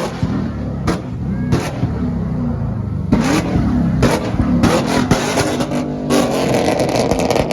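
Car engine revving hard, with repeated sharp exhaust pops and a dense run of crackles from about six seconds in.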